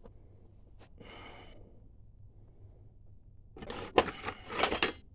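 Metal parts being handled: a quick run of clinks and scrapes for about a second and a half near the end, as conduit tubing is worked off a threaded steel rod. Before that there is only a faint rustle.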